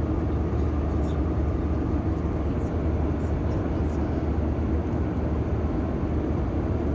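Airbus A320 cabin noise in flight: the steady rumble and rush of the jet engines and airflow, even and unchanging.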